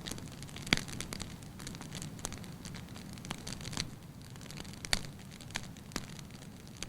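Wood fire burning in an open hearth, crackling with irregular sharp pops over a low steady hiss; the loudest pops come about a second in and again near the middle.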